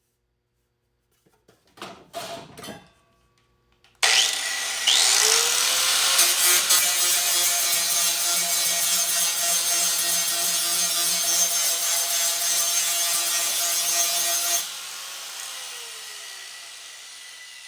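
A few brief handling noises, then a handheld power tool is switched on about four seconds in. It spins up with a rising whine and cuts or grinds steadily for about ten seconds, then is switched off and winds down with a falling whine.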